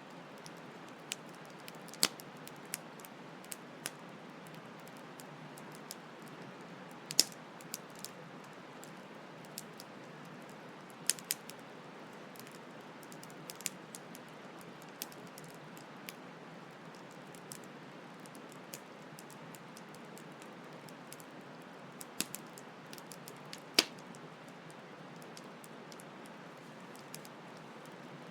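Campfire crackling, with irregular sharp pops and snaps of burning wood, over the steady rushing hiss of a flowing stream.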